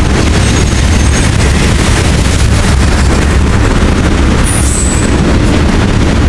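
Freight train cars (tank cars, then covered hoppers) rolling past close by: a loud, steady rumble and clatter of steel wheels on rail. A brief high-pitched wheel squeal comes in about four and a half seconds in.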